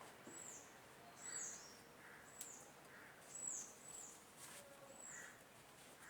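A bird chirping faintly over and over: short high notes that drop in pitch, about one a second. There is a faint click about two and a half seconds in.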